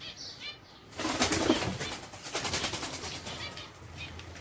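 Caged birds fluttering and flapping their wings in a sudden flurry about a second in that tapers off, after a few short chirps at the start.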